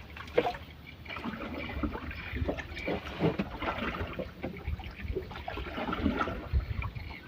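Water splashing and trickling around a small boat: quick, irregular splashes with a few light knocks.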